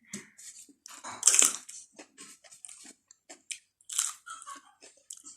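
A person chewing and crunching a mouthful of food close to the microphone, with many short irregular crunches and mouth smacks; the loudest bites come about a second in and again around four seconds.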